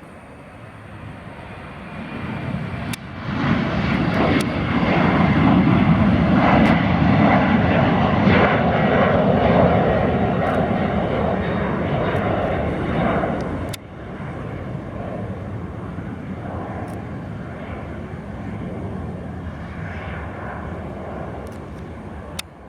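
Embraer E190 jet's twin General Electric CF34 turbofans at takeoff power, a roar that builds about three seconds in and stays loud for about ten seconds as the jet passes on its takeoff run. The roar drops suddenly near the middle and carries on fainter to the end.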